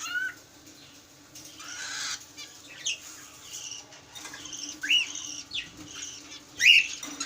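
Cockatiels calling: a few short, rising chirps a second or two apart, the loudest near the end, between harsh, raspy squawks.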